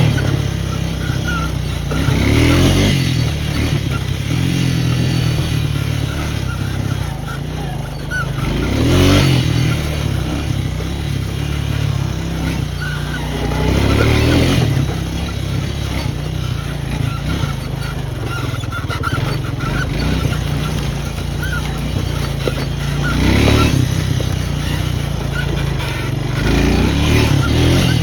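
Small off-road vehicle engine running continuously while riding a trail, its sound swelling several times as the throttle opens and eases.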